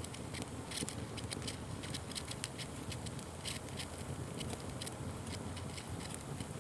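Fire crackling and popping: irregular sharp snaps, several a second, over a steady low rush of burning.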